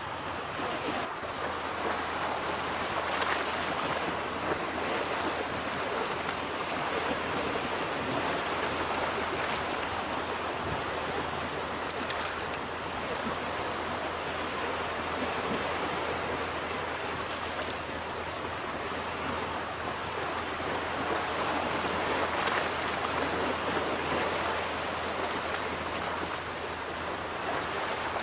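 Ocean waves washing onto a beach: a steady rush of surf that swells a little about three seconds in and again near the end.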